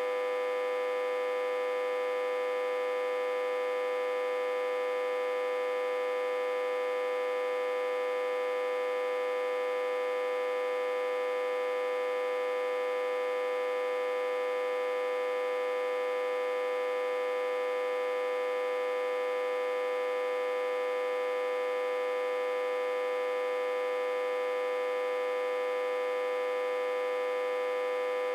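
Autotransformer, reverse-connected to a step-down transformer and fed about 60–80 V, humming steadily: one strong mid-pitched tone with many fainter overtones above it, unchanging throughout.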